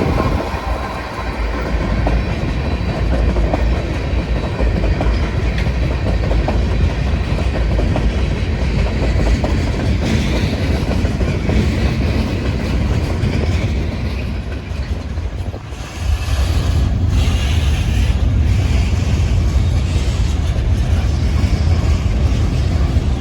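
Kansas City Southern train rolling past, a steady loud rumble of the train on the rails.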